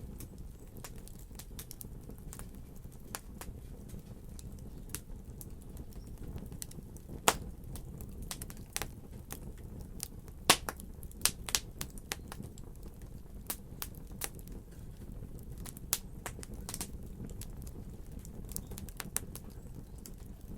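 Wood fire crackling: irregular sharp pops and snaps over a steady low rumble of burning, with louder pops about seven and ten seconds in.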